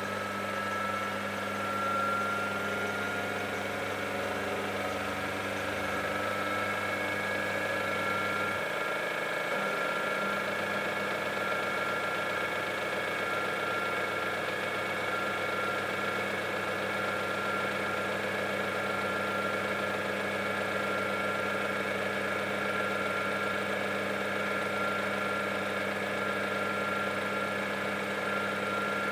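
Samsung 9 kg washing machine running its cycle: a steady motor hum with a high whine that rises slightly in pitch over the first couple of seconds, then holds.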